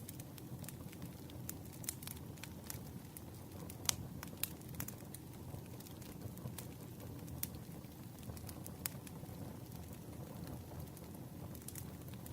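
Campfire crackling: irregular sharp pops and snaps of burning wood over a steady low rumble of flames, with one louder pop about four seconds in.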